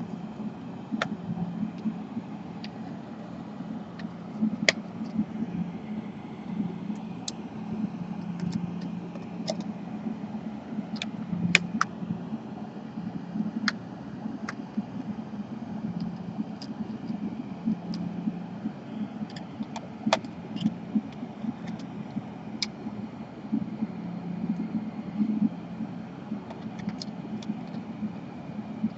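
Steady low hum with scattered light clicks and taps from small laptop parts and tools being handled.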